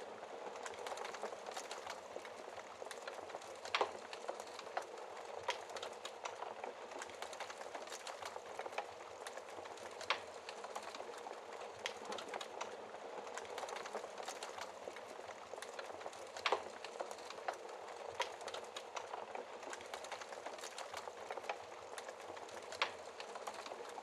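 Wood fire in a fireplace crackling steadily, with scattered sharp pops, the loudest four coming roughly every six seconds.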